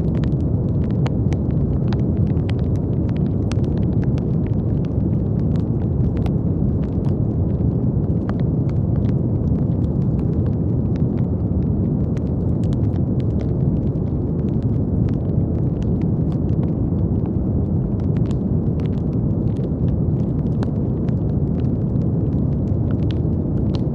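Steady brown noise: a deep, even rushing sound, heaviest in the low end, with scattered faint clicks or crackles through it.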